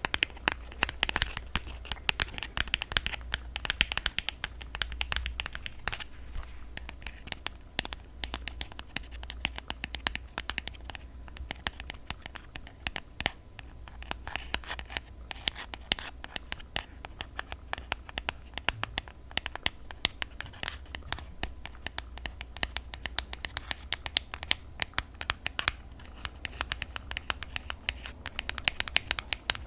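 Fingernails tapping and scratching on the cardboard packaging of a set of press-on nails: a dense, irregular run of quick clicks and scratches.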